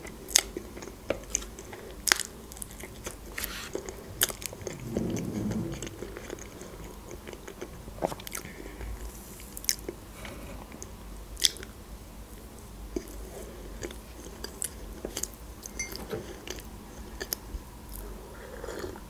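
Close-miked eating sounds: chewing soft cake with wet mouth clicks and smacks, and a fork clicking against the plate. Sipping from a mug near the end.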